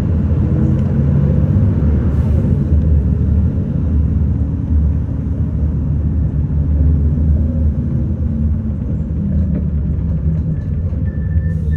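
City bus running, a steady low engine and road rumble heard from inside the cabin. A faint high steady tone comes in near the end.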